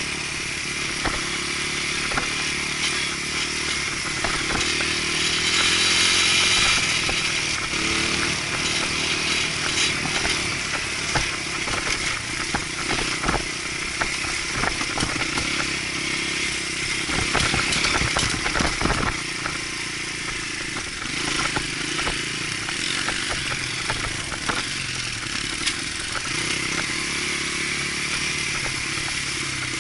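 Dirt bike engine running as the bike is ridden along a trail, the throttle rising and falling. A run of knocks and clatter comes about two-thirds of the way through.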